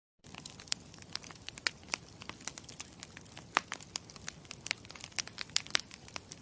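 Campfire crackling: irregular sharp pops and snaps, several a second, over a soft hiss, cutting in just after a brief moment of silence.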